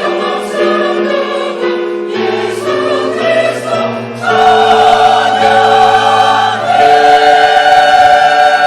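Parish church choir singing in harmony as background music, holding long sustained chords. It swells louder about four seconds in.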